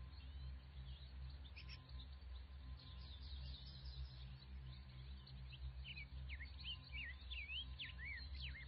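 Faint birdsong: many short chirps and whistles, busiest in the second half, over a low steady rumble.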